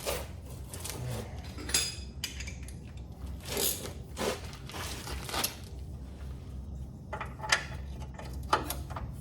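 Metal hand tools clinking and knocking against metal as he works on the truck, about half a dozen irregular sharp taps and clanks over a steady low hum.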